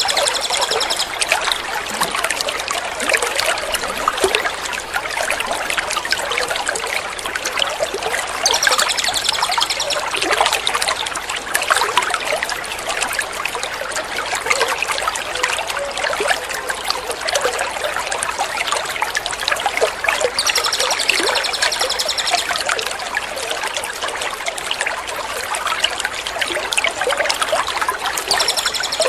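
Water trickling and splashing without a break, as in a small fountain or stream. About every ten seconds a bird's high, rapid trill sounds over it for a second or two.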